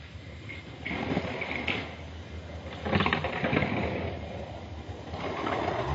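Irregular rattling and rustling in three bursts over a steady low hum.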